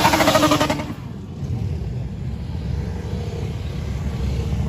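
Motorcycle engine revved high, dropping away about a second in, then motorcycle engines running steadily at a low pitch.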